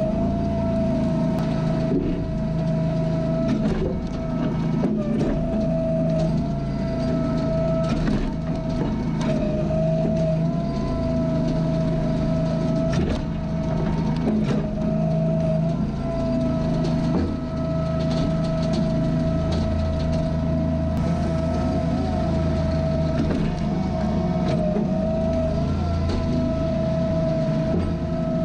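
Engine running steadily under a constant whine, with frequent short clicks and knocks through it.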